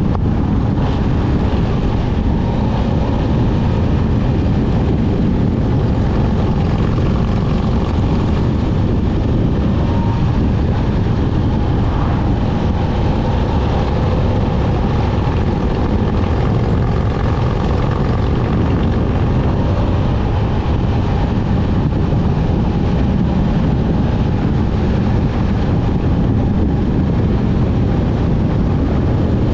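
Motorcycle running steadily while being ridden: a continuous low rumble of engine and road noise with no marked change in speed.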